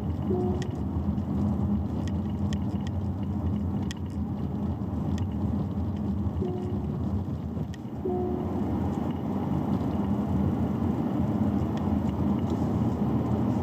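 Steady road and engine rumble of a Chery Omoda 5 being driven, with a few short tones and scattered faint clicks.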